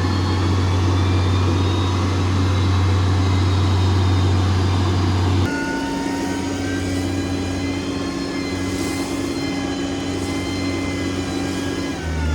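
Heavy diesel engines of road-construction machinery running steadily; about five seconds in the sound switches abruptly to a different engine with a steadier, higher hum, and the pitch falls away near the end.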